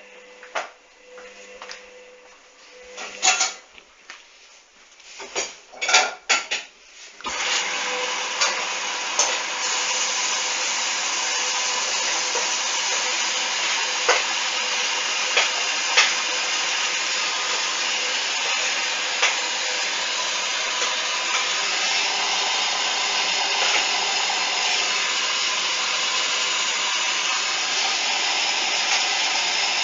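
Hoover washing machine starting a duvet wash: a few sharp clicks and knocks, then about seven seconds in a steady rushing hiss starts suddenly and carries on, typical of water filling the drum through the inlet valve.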